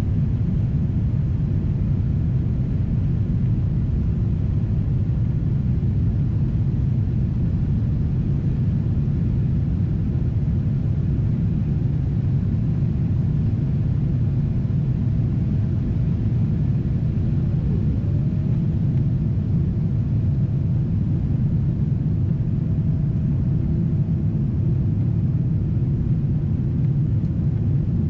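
Boeing 777-300ER cabin in flight: the steady low rumble of engine and airflow noise heard from a window seat.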